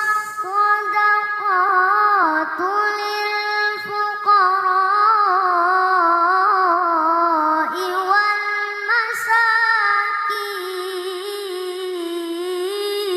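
A child qari's high voice reciting the Quran in melodic tilawah style: long held notes with winding ornamented turns, sung in one long breath.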